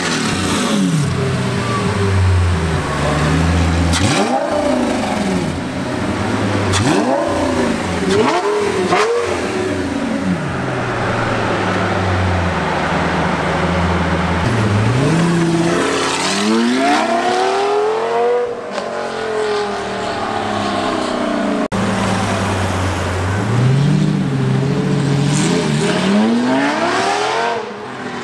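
Lamborghini Gallardo's V10 engine through a loud custom exhaust, idling and being revved over and over. There are several quick blips and a few longer revs that climb and fall back to idle.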